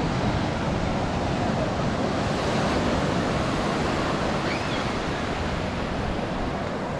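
Ocean surf washing steadily onto a sandy beach, with wind on the microphone.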